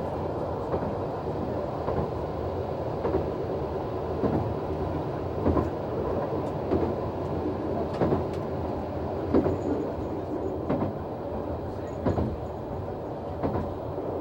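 Noto Railway NT100 diesel railcar running along the line: a steady engine and running noise, with the wheels clacking over rail joints every second or so.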